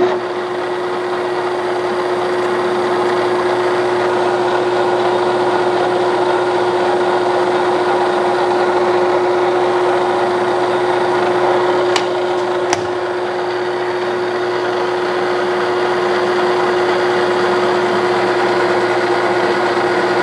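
Clausing Colchester 1340 metal lathe running steadily with a constant whine while the end of the workpiece is faced off. Two short clicks come about twelve seconds in.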